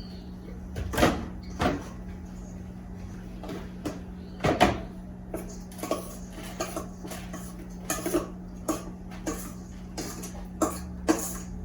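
Kitchen clatter: a dozen or so short knocks and clicks of containers, dishes and cupboards being handled and set down, the loudest about four and a half seconds in, over a steady low hum.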